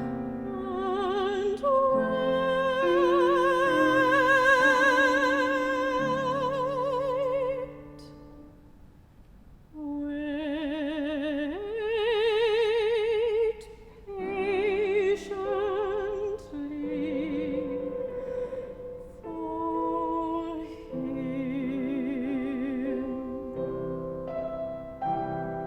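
A classical solo voice singing long held notes with strong vibrato over keyboard accompaniment, with a short break between phrases about a third of the way through.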